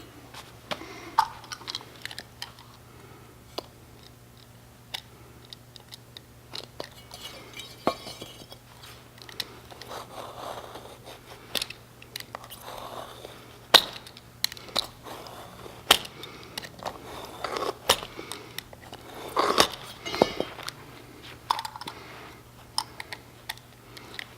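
A blade cutting through a thick rubber mat, in irregular crunching strokes with scattered sharp clicks. The rubber is tough to cut, almost like cutting through a tire.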